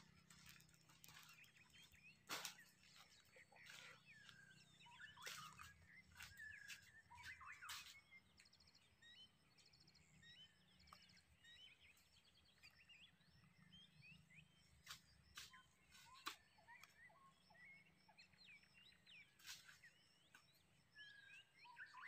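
Faint birdsong: many short chirps and calls from several birds, with a few quick trills, and scattered sharp clicks or knocks.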